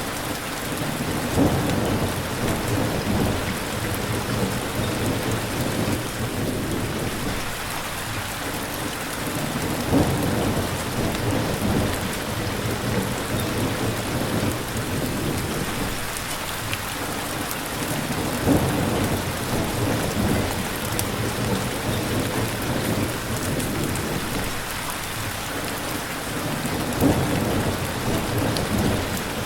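Steady rain falling, with a low rumble that starts sharply and swells about every eight or nine seconds, four times.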